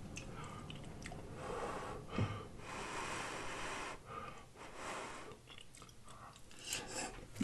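Faint chewing and breathing of a man eating a mouthful of spaghetti, with one longer breath about three seconds in and small mouth clicks near the end as another forkful goes in.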